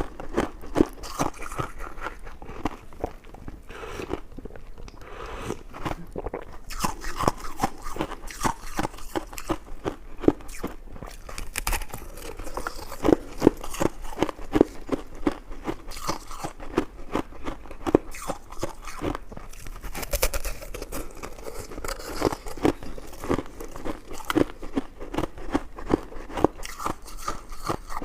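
Close-miked eating: a person biting and chewing food, a steady run of crunching clicks.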